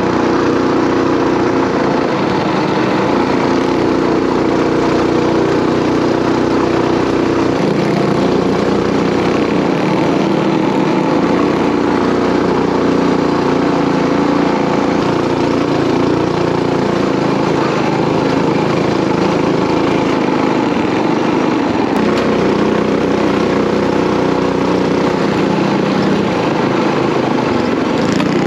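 Coleman mini bike's small single-cylinder four-stroke engine running steadily while riding.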